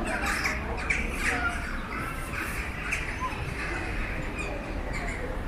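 Birds chirping and calling, busiest in the first three seconds, over a steady low rumble of street traffic.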